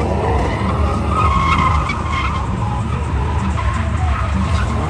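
A car spinning its tyres in a burnout on pavement: tyres squealing over an engine held at high revs, the revs climbing just after the start and again near the end.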